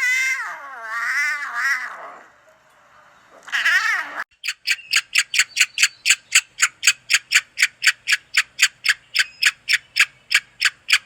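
Animal calls: a long, wavering, wailing call, then a short one. After that comes a quick, regular series of short sharp calls, about four a second.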